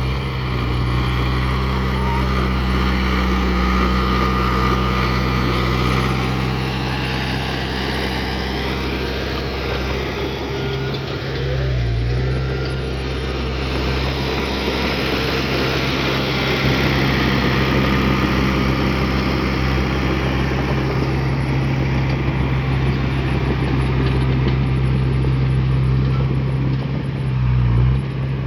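Heavy diesel earthmoving machine engine running steadily at work, its engine note dipping briefly twice, once about midway and once near the end.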